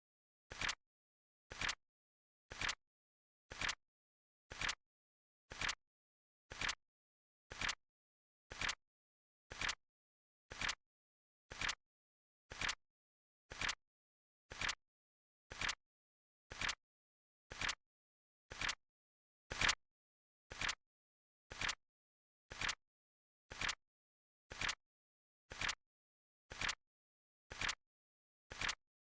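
Flip clock sound effect: a sharp double click, the card flipping, once every second in an even rhythm. One click about two-thirds of the way through is slightly louder.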